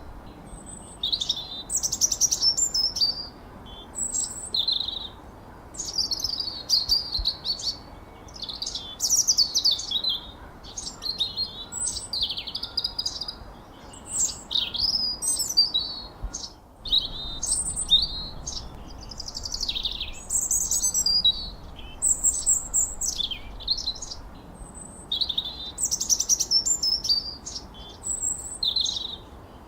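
Songbirds chirping and whistling in quick, busy phrases of high notes, many sweeping downward, one after another with only brief breaks.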